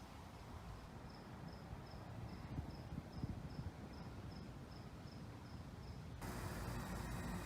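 An insect, likely a cricket, chirping steadily at about three short high chirps a second. About six seconds in the chirping cuts off and a louder, steady hiss takes over.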